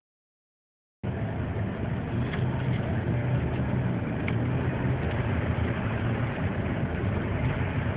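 Steady vehicle engine and road noise, a low even hum, starting about a second in after a moment of silence.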